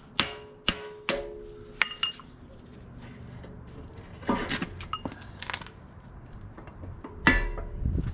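Metal tools and parts clinking and clanking against steel, the first few strikes ringing briefly; three sharp ones come in the first second or so, with further knocks around the middle and a heavier one near the end.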